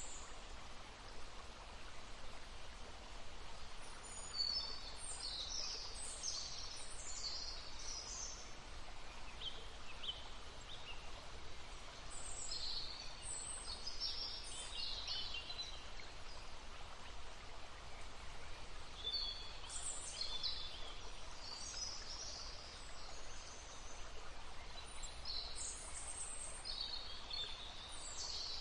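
Songbirds singing in short, high chirping phrases that come in four bursts a few seconds apart, over the steady murmur of a brook.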